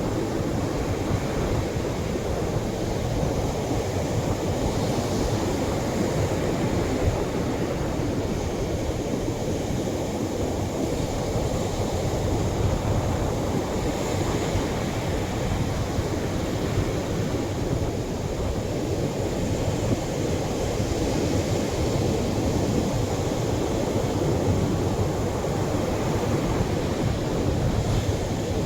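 Atlantic ocean waves breaking and washing on the shore, a steady rushing with no single crash standing out.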